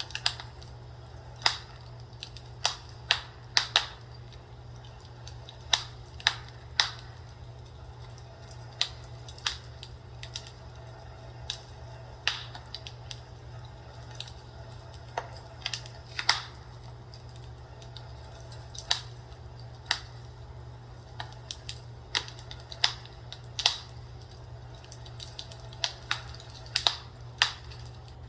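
Fireplace fire crackling: irregular sharp pops and snaps at uneven intervals over a steady low hum.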